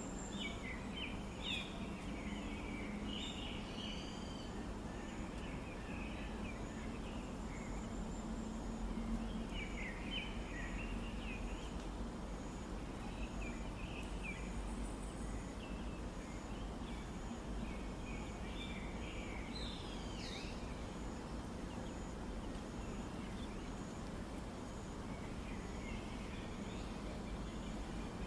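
Birds calling: scattered bursts of quick chattering notes come and go, with a faint, evenly repeating series of very high short notes beneath them, over a steady low hum and hiss.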